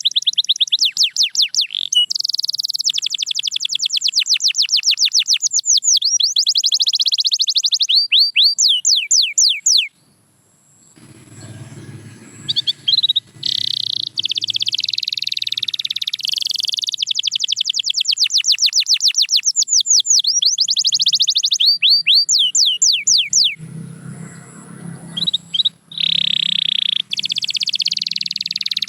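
Domestic canary singing: long, fast trills of rapidly repeated high notes and rolls, broken by two short pauses, one about a third of the way in and one near the end.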